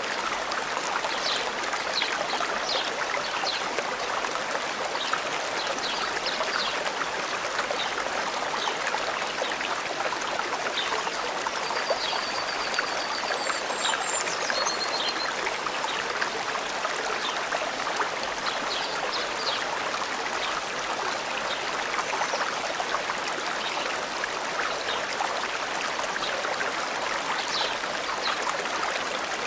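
Forest stream running steadily, with birds chirping: short high calls scattered throughout and a rapid high trill of repeated notes about halfway through.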